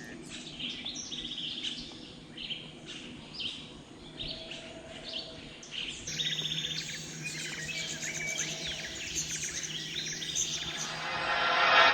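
Many birds calling and chirping in tropical rainforest, overlapping short calls and trills. Near the end a louder swell of sound builds up and cuts off suddenly.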